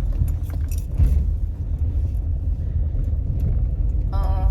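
Steady low rumble of a car in motion, heard from inside the cabin. A brief voice-like sound comes in near the end.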